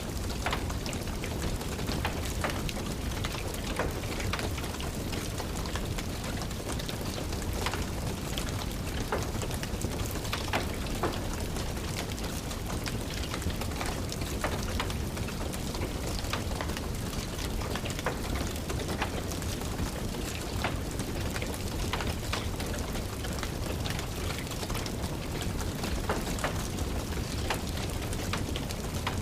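Steady rain mixed with a crackling wood fire, small sharp pops scattered irregularly over a constant hiss.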